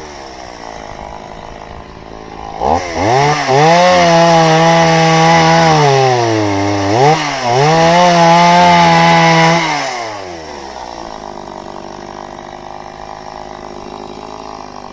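Two-stroke chainsaw idling, then revved up to full throttle for about four seconds. It dips briefly and runs at full throttle again for about two more seconds, then drops back to idle about ten seconds in.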